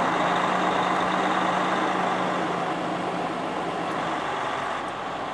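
Semi truck's diesel engine running steadily at low speed, easing off slightly about three seconds in.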